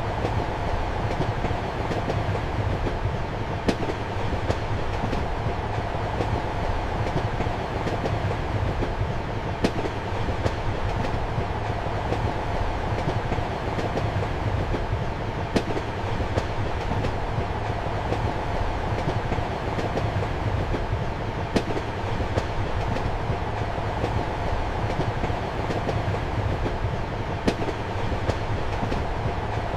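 Passenger train running steadily, heard from inside a compartment: a constant rumble and hum with the clickety-clack of wheels over rail joints, a sharper click coming about every six seconds.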